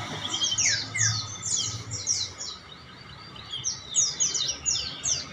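Many caged songbirds chirping and twittering at once, a dense chorus of short, high, falling notes that thins briefly about halfway through.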